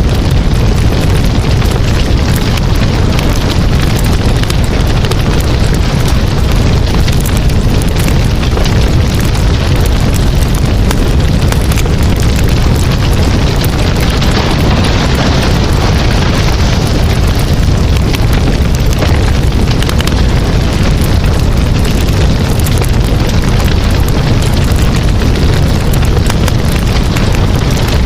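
Campfire burning: a steady low rush of flames with many small crackles and pops throughout.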